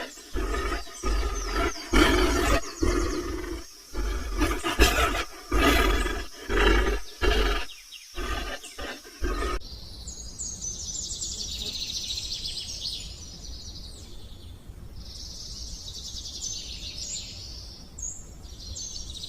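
An animal roaring or growling again and again, each call a second or so long with short gaps. About nine and a half seconds in it cuts to quieter, high-pitched chirping and trilling that runs on to the end.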